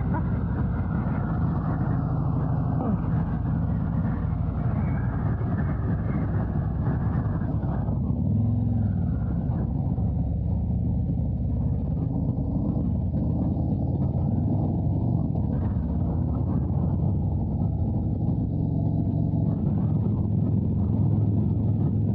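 Harley-Davidson Road Glide's V-twin engine running steadily as the motorcycle rides.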